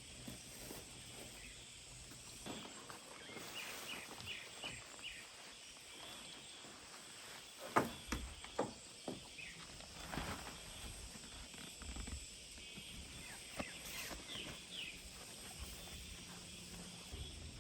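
Outdoor forest ambience: a bird gives two quick runs of short high chirps, one early and one near the end, over a steady high hiss. A few sharp knocks or taps come near the middle.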